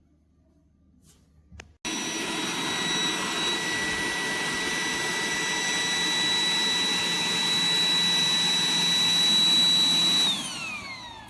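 iRobot Roomba 105 Combo robot vacuum's suction fan switching on abruptly about two seconds in as cleaning starts, running with a steady high whine over rushing air, then winding down with falling pitch near the end.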